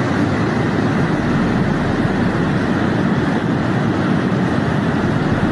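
Floodwater rushing, a steady, dense rushing noise with no break.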